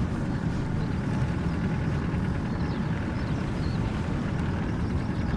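Off-road vehicle rolling slowly along a rough unsealed track, a steady low engine and tyre rumble. A few faint bird chirps sound in the middle.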